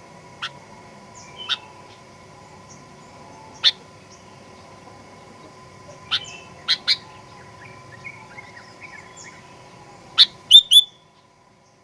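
Sooty-headed bulbul (kutilang) calling: sharp, loud chirps at irregular intervals, a soft run of quieter warbling notes past the middle, and three loud chirps close together near the end before the sound cuts off. A faint steady hum and faint distant chirps lie underneath.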